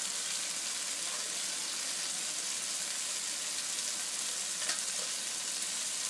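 Chopped onions and tomatoes frying in oil in a nonstick kadai, a steady sizzling hiss, with one faint click about three-quarters of the way through.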